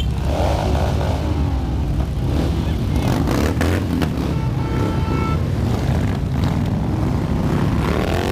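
Many motorcycle engines rumbling as a mass of bikes rides past, with engine pitch rising and falling as riders rev, and a brief steady tone like a horn about five seconds in.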